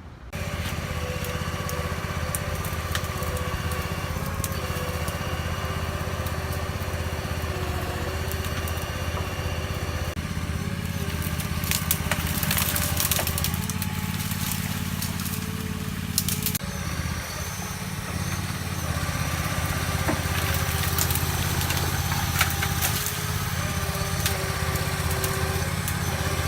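Weedoo TigerCat harvester boat's engine running steadily, driving the hydraulics that work the bucket. From about eleven seconds in there are bursts of crackling and snapping, and again near the end.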